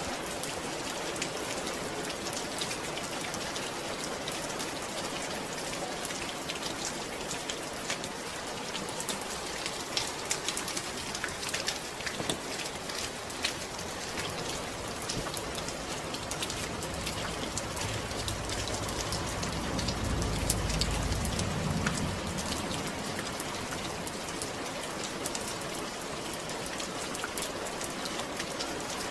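Steady rain falling, with many fine individual drop hits. A low rumble swells about two-thirds of the way through and fades again a few seconds later.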